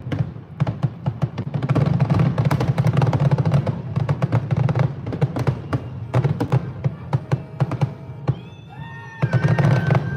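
Fireworks popping and crackling in rapid, irregular bursts over music. A few falling, whistle-like tones come about eight to ten seconds in.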